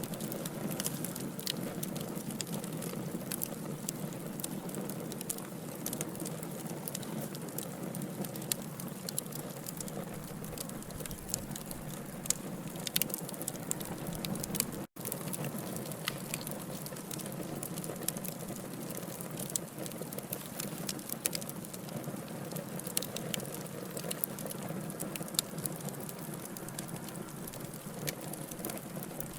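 Burning wood logs crackling: a steady low hiss and rumble with frequent sharp pops and snaps scattered irregularly throughout. The sound drops out for a split second about halfway through.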